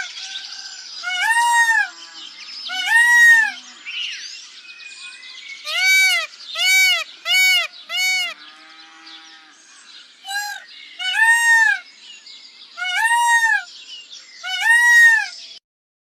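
A peacock calling: a series of about ten loud, arching calls, each rising and falling in pitch over half a second, with a quick run of four shorter, lower calls in the middle.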